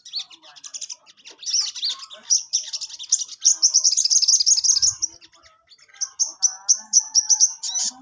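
Sogon songbird singing in full voice with high chirps and trills. A fast unbroken run of notes is followed, after a brief pause, by sharp chirps repeated about four a second.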